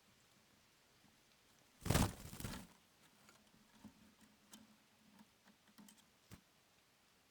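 A brief loud rustle or scrape about two seconds in, then scattered faint rustles and clicks, with one sharp click near the end.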